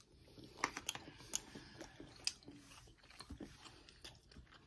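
Faint chewing of a mouthful of grilled chicken close to the microphone, with soft, irregular mouth clicks that are most frequent in the first few seconds.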